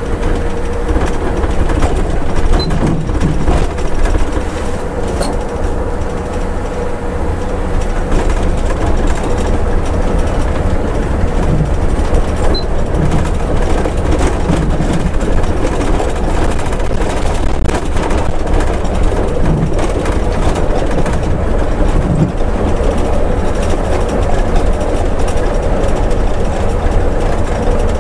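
Scania coach's engine and road noise heard from the driver's seat while descending a mountain road: a steady, loud, deep rumble with a faint steady whine running over it.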